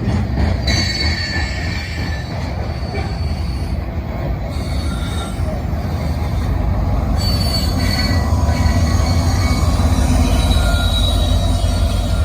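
Freight train rolling through a curve, its wheels squealing on the rails: thin high tones that come and go over a steady heavy rumble.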